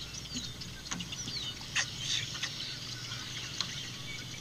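Birds calling in the background: a few short, high whistles that fall in pitch, over a steady high hiss. Two sharp clicks sound about one and two seconds in.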